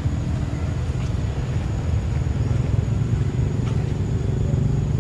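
Low steady rumble of a motor vehicle engine running, growing slightly louder in the second half.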